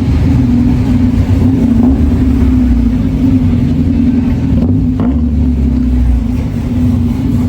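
A car engine running steadily, holding one low pitch with no revving.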